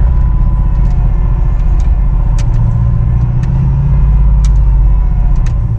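Truck engine and drivetrain rumbling steadily while climbing a snowy off-road trail, a little louder about four seconds in, with scattered sharp clicks and knocks.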